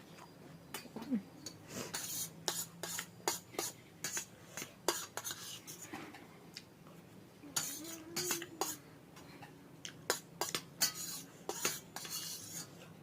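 Cutlery clinking and scraping against a dish while eating, a run of irregular sharp clicks with short scrapes.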